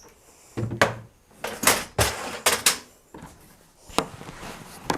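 A run of sharp knocks and clatters, about seven in all, from bolts and hardware against the kayak's hull as a bolt for a new handle is worked through it.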